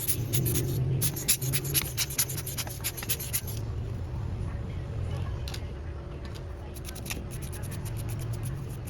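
Small clicks and scratches of hand tools and fingers working on a smartphone during a battery replacement. There is a quick run of many clicks in the first few seconds, then only occasional ones, over a steady low hum.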